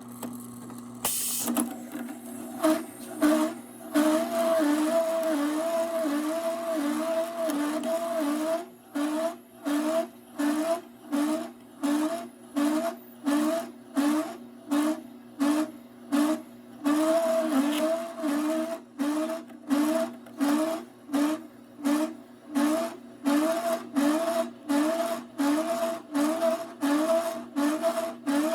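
Suburban Tool/TMI research grinder with fiber head starting up and grinding leftover cortical bone remnants into fiber. It is a steady motor hum broken by a regular pulsing of about one and a half beats a second, from a couple of seconds in.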